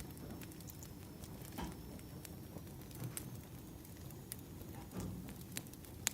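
Firewood burning: a low steady rustle of flames with irregular sharp crackles and pops, and a few duller pops.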